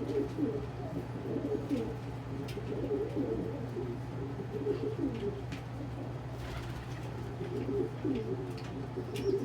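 Several domestic pigeons cooing, low warbling coos overlapping one another, over a steady low hum with a few faint clicks.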